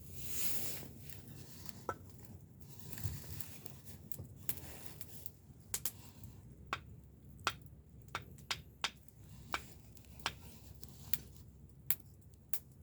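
Wood fire crackling, with sharp pops and snaps at irregular intervals over a low steady rush.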